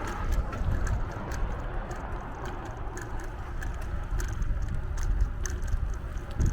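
Riding a bicycle: wind rumbling on the microphone, with scattered sharp clicks and rattles from the bike.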